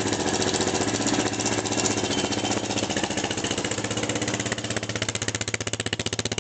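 Suzuki QuadSport 160 ATV engine idling just after a cold start. Its steady beat turns into more distinct, uneven firing pulses about halfway through as it settles.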